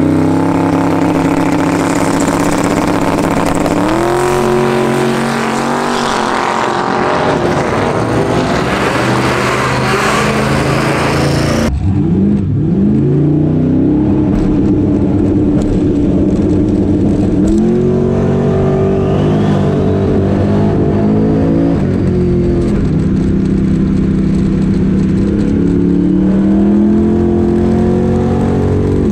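Twin-turbo 427 cubic-inch Dart LS V8 race car running hard, its engine pitch climbing and dropping in steps. About twelve seconds in the sound shifts to inside the stripped, roll-caged cabin, where the engine carries on running and revving.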